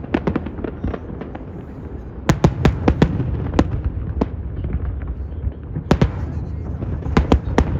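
Aerial fireworks bursting: sharp bangs at irregular intervals over a continuous low rumble. There is a quick run of crackling pops at the start, a cluster of loud bangs about two to four seconds in, and another cluster near the end.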